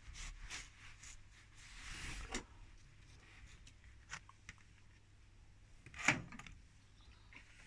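Soft rubbing strokes of the microwave's waveguide cover being wiped dry by hand, with a few light clicks and one louder knock about six seconds in as it is handled.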